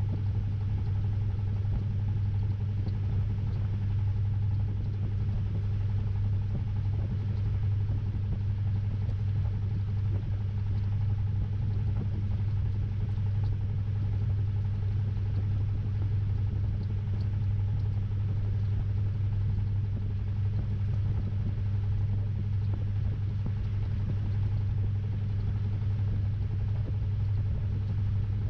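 Samsung 6.5 kg top-load washing machine running, heard from inside the tub: a loud, steady motor hum with a low drone that holds without a break.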